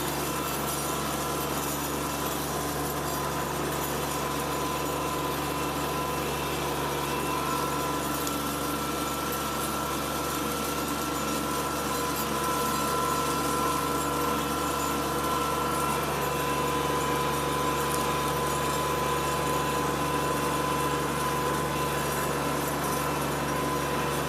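Kubota B2601 compact tractor's three-cylinder diesel engine running steadily while it pulls a drag harrow.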